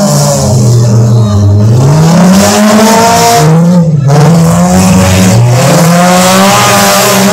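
Several car engines revving hard and close. Their pitch climbs and falls again and again as the throttle is worked, with one engine overlapping another.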